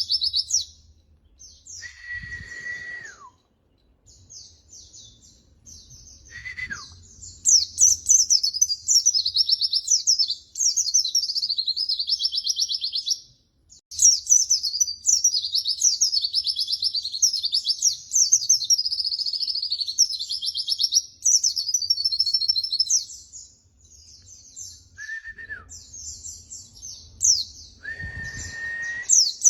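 White-eye (pleci) singing in long runs of rapid, high-pitched twittering, with a few short pauses. Now and then a lower, level whistled note comes in, dropping in pitch at its end.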